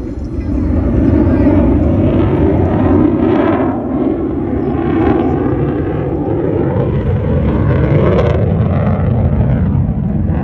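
Loud, continuous jet aircraft noise with a deep rumble, its pitch texture swelling and fading several times.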